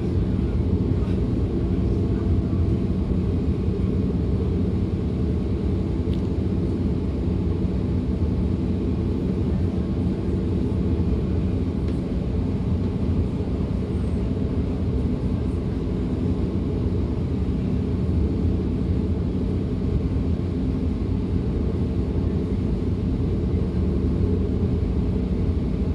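Steady running noise of a DB Class 425 electric multiple unit under way, heard from inside the passenger compartment: a constant low rumble with a steady hum in it and no breaks.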